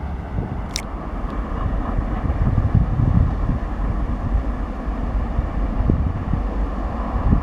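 A train running past: a low, uneven rumble, with wind buffeting the microphone. There is a short sharp click about a second in.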